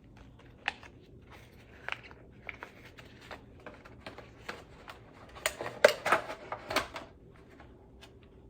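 Catheter kit supplies being handled and unwrapped: scattered light clicks and crinkling of packaging, busiest from about five and a half to seven seconds in.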